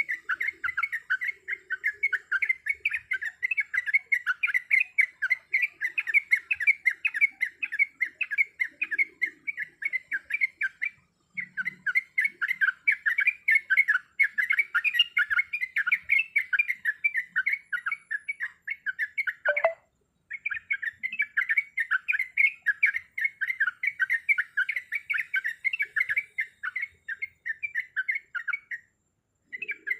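Yellow-vented bulbul (trucuk) singing a rapid, unbroken stream of chirping notes, pausing briefly about a third and two-thirds of the way through and just before the end.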